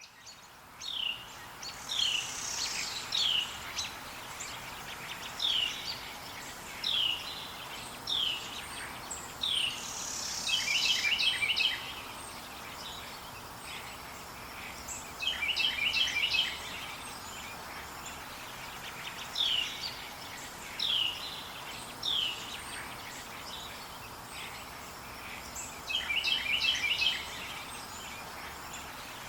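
Forest songbirds calling: a short falling whistled note repeated every second or two, and three times a rapid chattering trill, over a steady faint background hiss.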